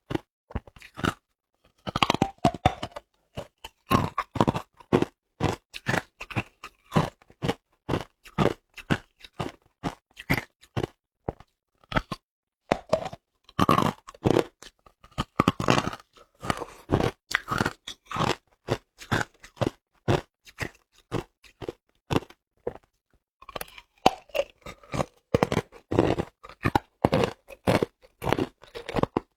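A person biting and chewing hard ice: a fast, irregular run of sharp crunches and crackles, with a brief pause about three quarters of the way through.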